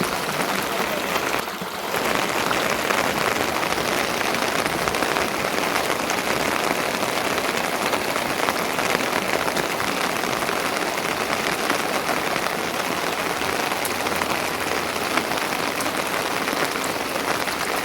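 Steady rain falling and pattering, an even dense hiss that dips briefly about one and a half seconds in.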